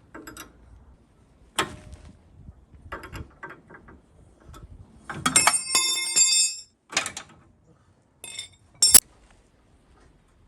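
Metal tools knocking and clinking on a truck's front steering and suspension bolts as a 24 mm wrench goes to work. About halfway through, a piece of metal clatters and rings for over a second, and near the end there is one sharp loud clank. This fits a loose bolt coming off and dropping.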